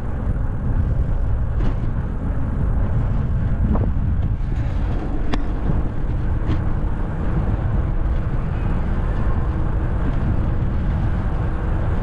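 Wind rushing over the microphone of a camera carried on a moving bicycle, a steady low rumble, with a few faint clicks.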